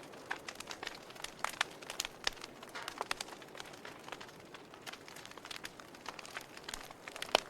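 Wood campfire crackling: irregular sharp pops and snaps over a soft steady hiss, with one louder pop near the end.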